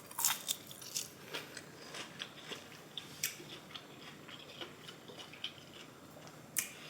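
A person biting and chewing crisp fried asparagus, with scattered short crunches, a few of them louder.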